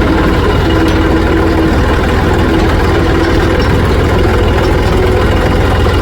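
Diesel engine of heavy farm or earthmoving machinery running steadily with an even low throb, with a faint tone above it that comes and goes.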